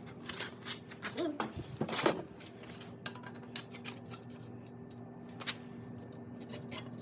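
Small metal clicks and clinks of bolts and feet being fitted to the legs of a folding table-saw stand, with a louder clatter of metal about two seconds in, over a steady low hum.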